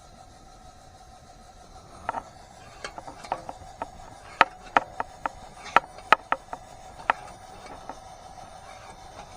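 A run of about a dozen sharp, irregular knocks, starting about two seconds in and stopping about seven seconds in, over a faint steady hum.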